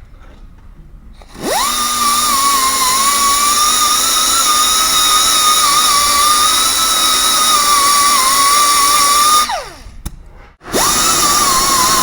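Handheld high-speed rotary power tool spinning up to a high whine with hiss, running about eight seconds with its pitch wavering slightly under load, then winding down and starting again near the end. This is typical of cleaning gasket surfaces on a diesel cylinder head.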